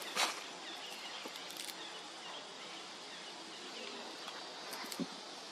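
Quiet outdoor ambience: a steady hiss with faint small chirps, and a few brief clicks or rustles near the start and end.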